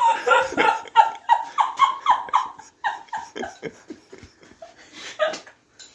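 A person laughing in a run of short 'ha' pulses, about three or four a second, dying away into breathy giggles near the end.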